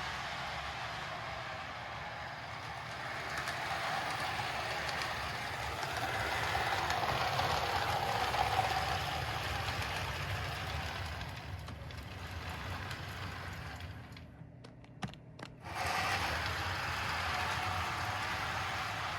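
Kusan Atomic Train toy locomotive running around its track, its electric motor whirring and its wheels rattling on the rails. About three quarters of the way through it cuts out for a second or two, with a few clicks, then starts again: a stall at a bad track connection.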